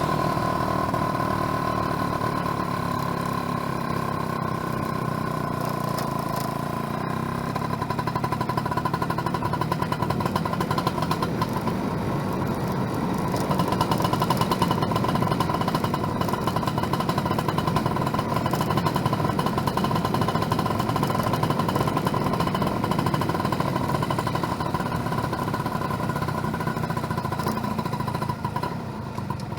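Yamaha F1ZR two-stroke single-cylinder motorcycle engine running steadily while riding, with a steady high tone through it. It gets a little louder from about 13 seconds in.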